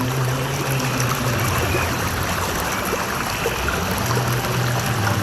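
Flowing stream water rushing steadily, with a low held tone under it that drops out about two seconds in and comes back near the end.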